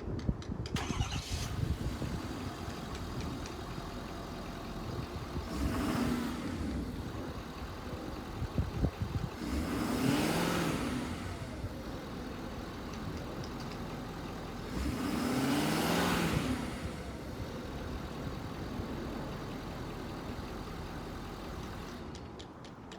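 Ford F-550 truck engine cranking and catching about a second in, then idling and revved three times, each time rising in pitch and falling back. The running sound stops about a second before the end.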